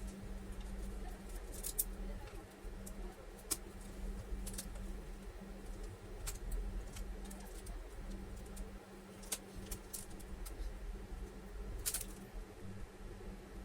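About ten light, sharp clicks and taps, spread irregularly, as small tools and hard plastic or metal laptop parts are handled, over a steady low hum.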